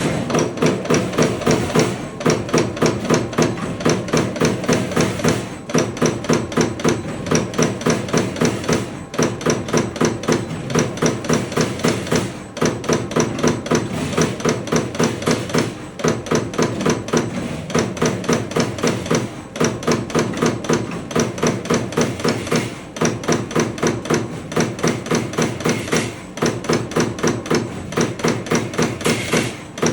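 Magnum 2125 turret punch press punching holes in SUS304 stainless steel sheet: rapid, evenly spaced punch strikes, about four to five a second, in runs of a few seconds with short pauses between them.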